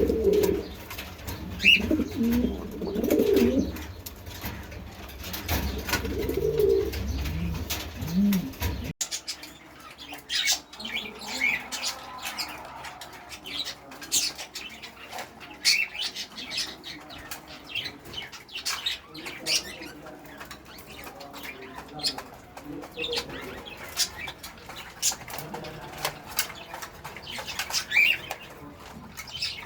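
Domestic pigeons cooing in a loft for the first several seconds. After an abrupt change about nine seconds in, wings flap and rustle repeatedly, with scattered high chirps from other birds.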